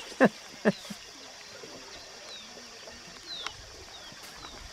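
Quiet outdoor ambience with small birds giving brief, high, falling chirps several times. Two short, loud sounds come in the first second.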